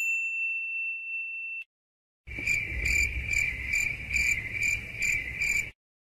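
Two stock sound effects in turn. First a single bright ding that rings for about a second and a half and cuts off abruptly. After a short pause comes a high-pitched pulsing trill, about two to three pulses a second, over a low rumble, lasting about three and a half seconds.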